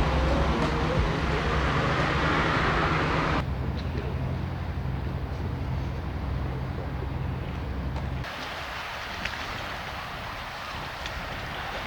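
A steady low engine hum with wind noise, broken by two abrupt changes in sound about three and eight seconds in.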